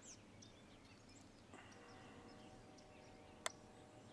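Quiet outdoor ambience: faint high chirps of small birds over a faint steady hum, with a single sharp click about three and a half seconds in.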